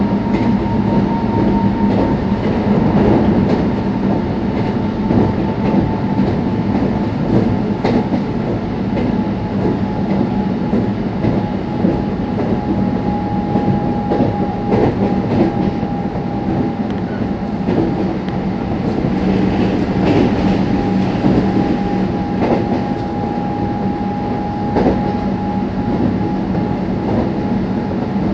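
Meitetsu 3500 series electric train running along the line: a steady rumble of wheels on rail with repeated clicks over rail joints. Over this runs a high, thin whine that sinks slightly in pitch over the first several seconds and then holds steady.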